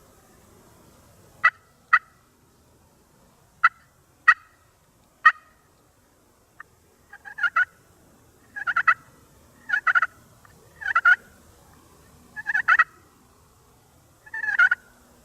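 Wild turkey gobbling in answer, six rattling gobbles a second or so apart, preceded by five sharp single call notes.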